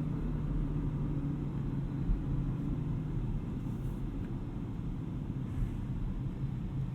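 Audi RS6 Avant's 591 hp twin-turbo V8 running steadily at highway speed, with a low engine drone and tyre and road noise heard from inside the cabin.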